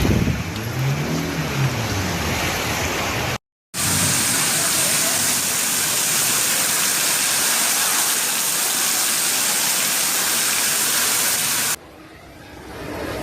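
Storm footage sound: a steady, loud rush of wind and water noise, broken by abrupt cuts between clips, one about three seconds in and another near the end.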